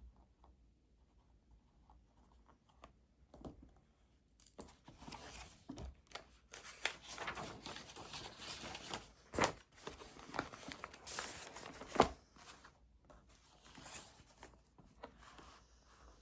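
Paper being handled at a desk: rustling and crinkling for several seconds with a few sharp clicks and snaps, then quieter rustles.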